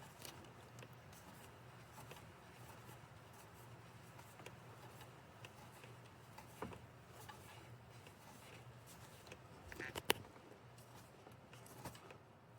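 Faint light clicks and handling noise from a 10 mm socket being turned by hand on a coil pack bolt, with one sharper metallic click about ten seconds in.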